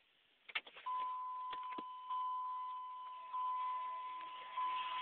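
A few clicks of keys at the ignition, then a truck's dashboard warning chime sounding, a steady tone that swells again about every second and a quarter.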